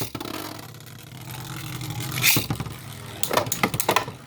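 Two Beyblade spinning tops, one of them 3D-printed, launched together into a plastic stadium. They whir and scrape steadily, with sharp clacks as they collide, once about two seconds in and several times near the end.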